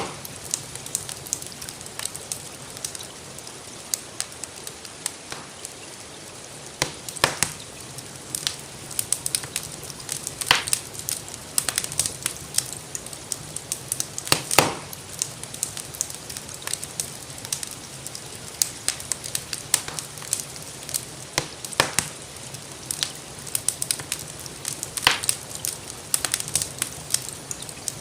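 Wood fire crackling, with irregular sharp pops over a steady soft hiss of rain.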